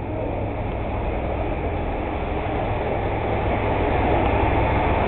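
Airbus A380's four jet engines, a steady rumbling roar that grows gradually louder as the airliner draws nearer.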